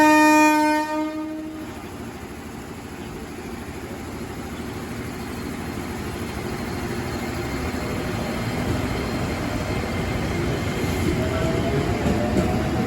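An electric commuter train (JR 205 series EMU) sounds its horn once for about a second and a half. Then the rumble of the moving train builds steadily under heavy rain, with a faint rising whine near the end.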